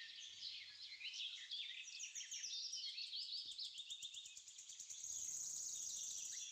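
Many small birds chirping and twittering at once, a dense chorus of quick high chirps, with a steadier high trill near the end.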